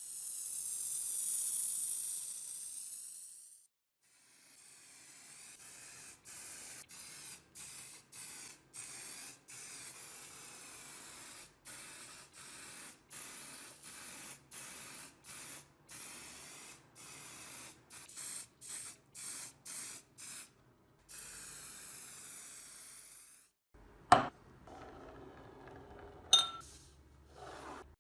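Paint being sprayed onto a part in hissing bursts: one long spray, then many short bursts in quick succession, then another long spray. Two sharp clicks follow near the end.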